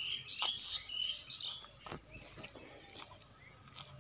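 Birds chirping in the background during the first second and a half, with a couple of faint clicks.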